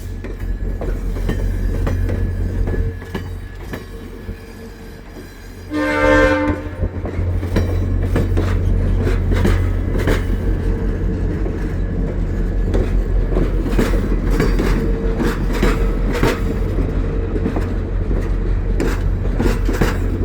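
VIA Rail passenger train's diesel locomotive rumbling as the train pulls in, with one short horn blast about six seconds in. After the horn, the wheels keep clicking over the rail joints as the cars roll in.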